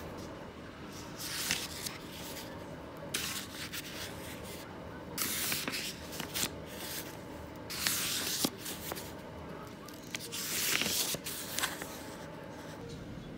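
A series of about five short hissing, rustling sounds, each under a second long, with small clicks and taps between them.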